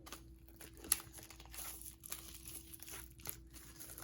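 Plastic wrapping on a sealed album digipack crinkling and tearing as it is opened by hand, with a sharp click about a second in.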